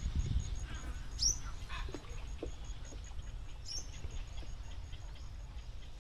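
Birds calling in the trees along a canal: two high, quickly falling chirps, about a second in and again near four seconds, with a few short calls between. A faint high note pulses about four times a second over a low rumble that dies away early on.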